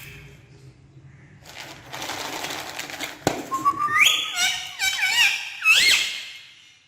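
Pet parrot whistling: a rising whistle, then a run of wavering, warbling whistles. A rustling noise comes before them, with a sharp click about three seconds in.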